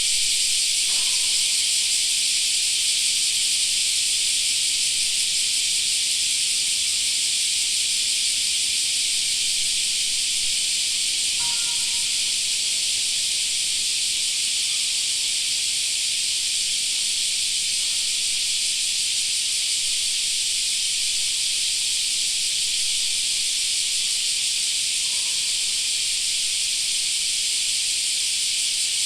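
Cicadas chorusing in summer: a steady, dense, high-pitched buzz that holds at an even level without a break.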